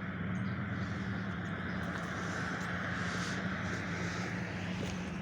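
Street traffic: a steady low engine hum, with the noise of a passing vehicle swelling and fading in the middle.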